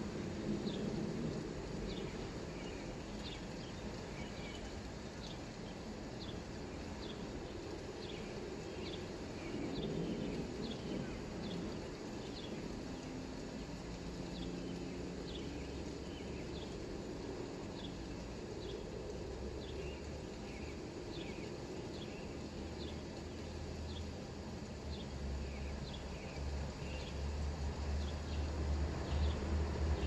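A small bird chirps about once a second, each chirp a short sharp downward note, over a steady hiss of light rain. A low rumble builds near the end.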